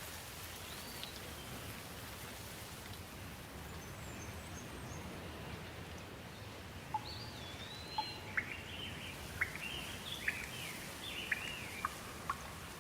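Birds calling over a steady low background hiss: a few faint whistles early on, then from about seven seconds in a quick series of short, sharp chirps and whistles, several a second.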